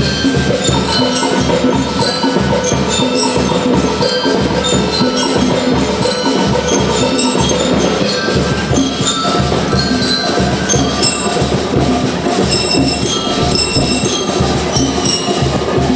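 A percussion band playing a piece with a steady drum beat, wood-block clicks and ringing bell-like mallet instruments such as glockenspiel and xylophone.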